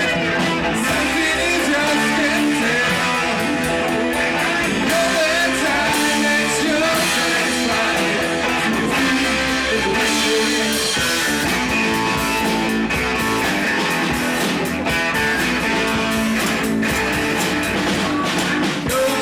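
Rock music led by guitar, with a drum kit, playing continuously at a steady loud level.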